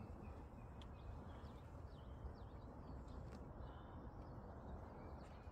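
Faint chirps of small birds, a few short calls scattered throughout, over a steady low rumble.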